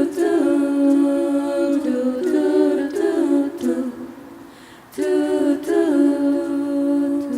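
A cappella vocal group singing held chords in close harmony, without instruments. One phrase dies away around four seconds in, and a new phrase begins about a second later.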